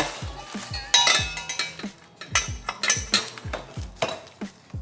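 Stainless-steel exhaust parts clinking and ringing as they are handled, the loudest clink about a second in, over background music with a steady beat.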